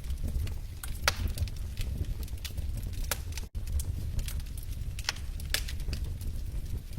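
Wood fire crackling in a fireplace: irregular sharp snaps and pops from the burning logs over a steady low rumble. The sound cuts out for an instant about halfway through.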